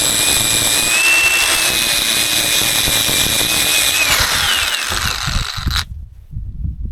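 A small high-speed power tool running with a loud, high-pitched whine. About four seconds in its pitch slides down, and shortly after it cuts off abruptly, leaving only faint low handling noises.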